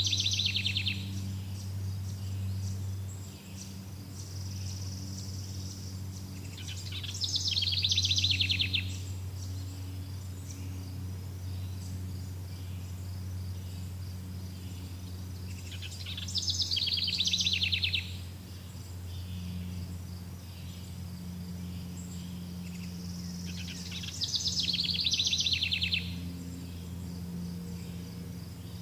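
Outdoor nature ambience: an animal's high, rapid trill, about two seconds long, repeats four times at roughly eight-second intervals over a steady low hum.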